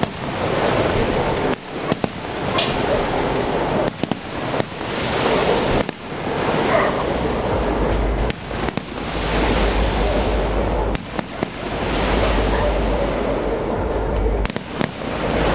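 A fireworks display going off as a dense, continuous barrage of bursts, with a heavy low rumble through the second half.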